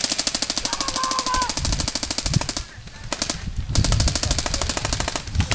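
Airsoft electric guns firing on full auto: rapid, evenly spaced clicks in a long burst, a brief break just under three seconds in, then more bursts.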